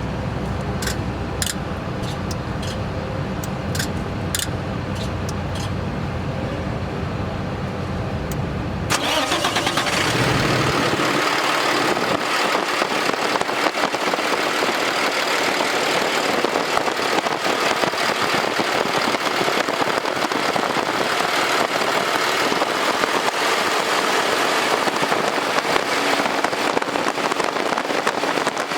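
Cummins 6.7L ISB six-cylinder diesel of a Ford F750 truck idling steadily. About nine seconds in, the sound cuts suddenly to a loud, steady hiss, and the engine's low rumble drops away.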